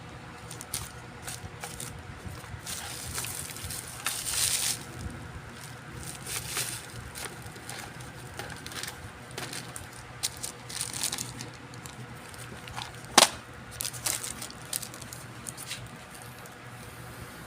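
Handling noises at an electronics repair bench: scattered small clicks, scrapes and rustling, with one sharp loud click about 13 seconds in, over a steady low hum.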